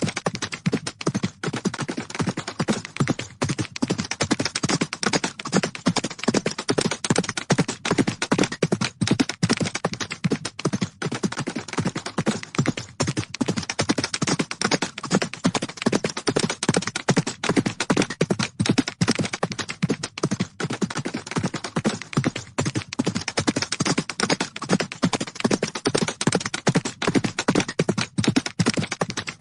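Horses galloping: a fast, continuous run of hoofbeats on the ground.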